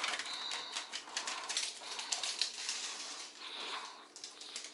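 A dog moving about restlessly, its claws clicking and tapping rapidly on a hard floor, with a brief high-pitched squeak near the start.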